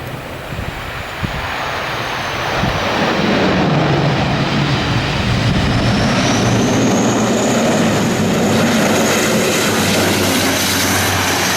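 Airplane engines growing louder about two and a half seconds in as the aircraft comes in to land, with a high whine that rises from about the middle. Strong wind gusting on the microphone at the start.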